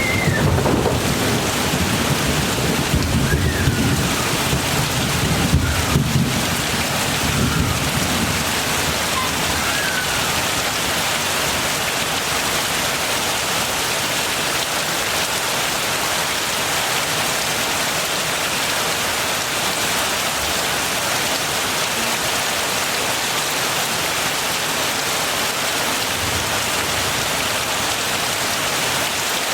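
Heavy rain falling steadily, with a low rumble of thunder over the first several seconds that fades out about eight seconds in.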